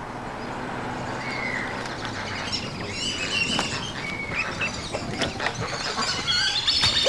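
Birds chirping and calling over a steady low hum.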